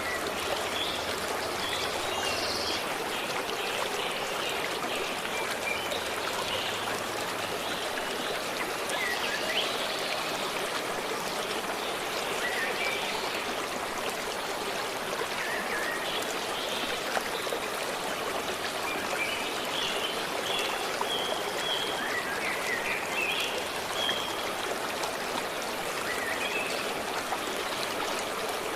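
A forest stream running steadily, with short, scattered bird chirps over the water.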